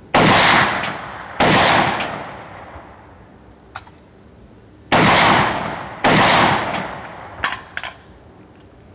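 Four single shots from a semi-automatic AR-15 rifle in .223/5.56, fired in two pairs about a second apart, each followed by a long echo. A few faint clicks fall between the shots.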